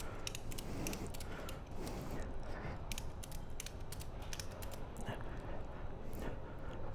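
Ratchet tie-down strap being tightened, its pawl clicking in quick irregular runs as it secures a motorcycle.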